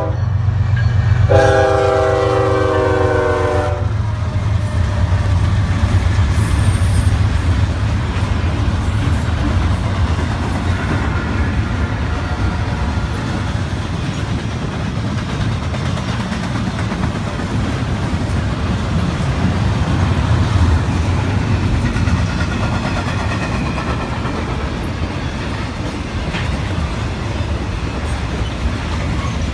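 Norfolk Southern diesel locomotive horn sounding one long chord of several notes, starting about a second in and lasting about two and a half seconds. Then the locomotives and the intermodal train's cars rumble steadily past on the rails.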